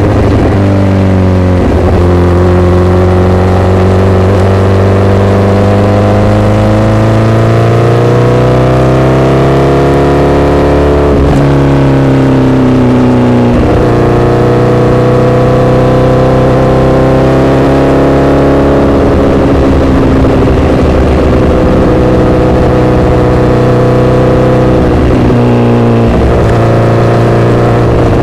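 Honda CBR1000RR inline-four sportbike engine running loud through an SC-Project aftermarket exhaust while riding. Its pitch climbs gradually, drops sharply a few times and holds level in between.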